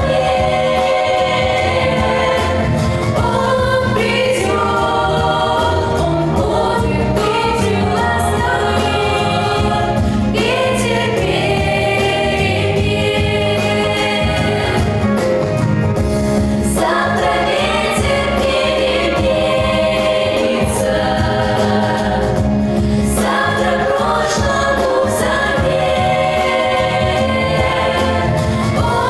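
Vocal ensemble singing together over instrumental accompaniment.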